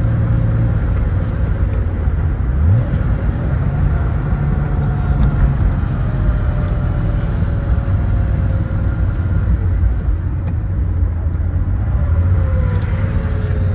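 1975 Porsche 911S's air-cooled 2.7-litre flat-six running under way, with tyre and road noise. Its pitch rises briefly a couple of seconds in, then falls slowly as the car eases off.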